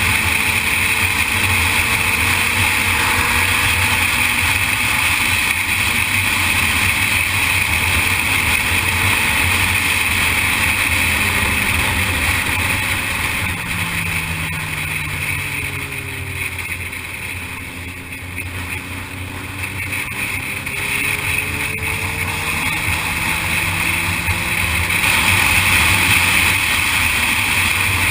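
Sportbike engine running under way with a steady rush of wind and road noise. About halfway through, the engine note falls as the rider eases off, then climbs again as the bike speeds back up.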